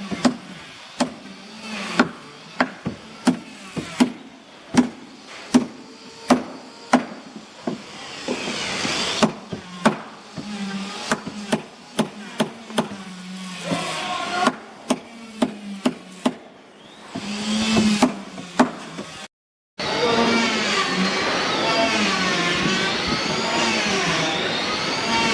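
Repeated hammer blows on wood, about one to two a second, the kind of hammering done when building a wooden boat hull. About 19 s in the sound cuts briefly to silence, then a steady sound with a wavering pitch takes over.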